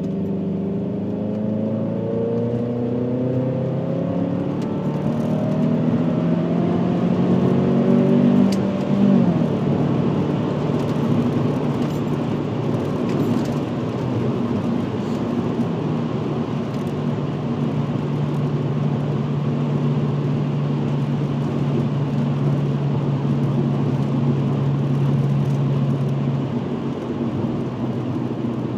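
VW Passat W8's 4.0-litre W8 engine through a custom stainless exhaust with twin rear mufflers, pulling with a steadily rising note for about nine seconds, then dropping sharply at a shift or lift-off and settling into a steady cruising note, over continuous tyre and road noise.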